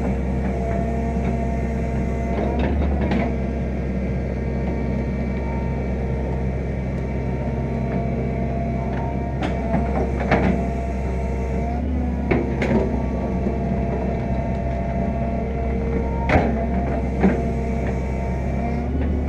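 Fiat-Hitachi EX165 crawler excavator running steadily under load, its diesel engine humming with a steady hydraulic whine over it, while digging topsoil. Several sharp knocks stand out at irregular intervals.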